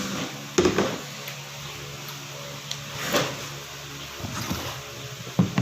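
A steady low hum with a few short knocks or rustles over it, the sharpest about half a second in and about three seconds in.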